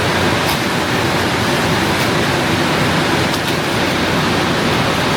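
Steady, loud running noise of factory machinery on an automatic vacuum-sealing and packaging line, with a few faint clicks.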